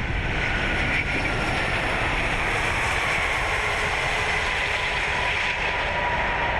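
Steady rushing noise and low rumble in an Airbus A380 cockpit during the landing rollout, just after touchdown.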